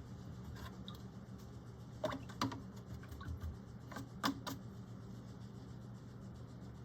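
A few light taps and clicks of a paintbrush being cleaned, in two small clusters, over a steady low hum.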